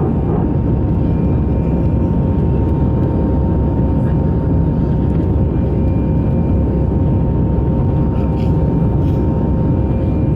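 Airbus A318 jet engines heard from inside the passenger cabin: a loud, steady rush with two steady whine tones on top.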